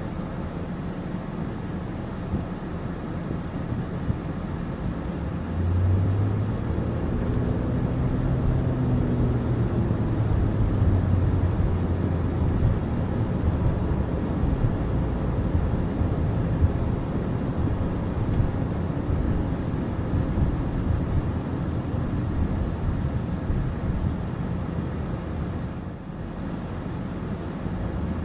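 Car driving: steady engine and road noise, the engine note getting louder about six seconds in.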